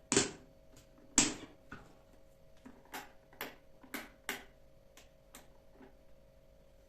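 Objects being handled and set down: two sharp clatters, the second about a second after the first, then a run of lighter clicks and taps, over a faint steady hum.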